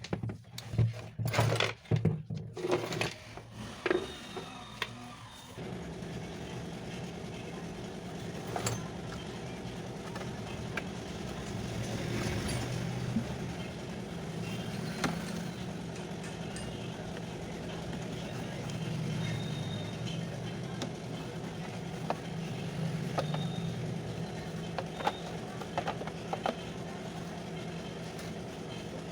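A few clicks and knocks of parts being handled, then from about five and a half seconds in a mixer grinder's universal motor running steadily, the test run after its armature and field coil have been fitted.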